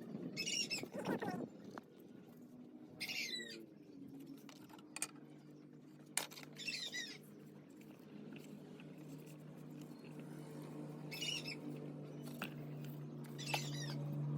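A bird calling five times in short, high, wavering calls spaced a few seconds apart, over a steady low hum and a few sharp clicks.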